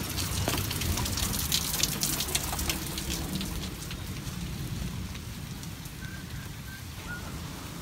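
Rain falling steadily, with a spatter of sharp crackles through the first three seconds.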